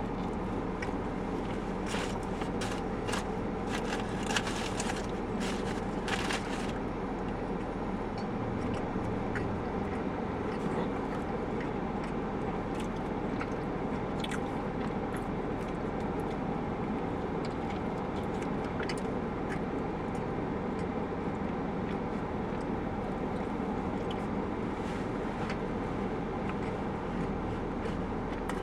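A person biting into and chewing a grilled chicken sandwich with lettuce and tomato: crisp crunching clicks through the first six seconds or so, then only faint chewing. A steady hum runs underneath.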